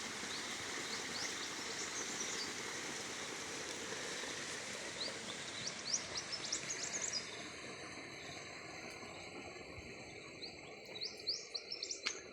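Small birds giving quick, high rising chirps in three short bursts, over a steady rush of running water that eases off after about seven seconds.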